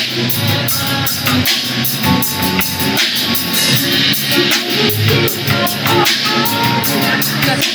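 Rock music played on electric guitar and drum kit, with a steady beat.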